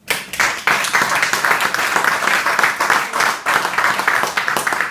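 Audience applauding, starting suddenly and loud, many hands clapping at once.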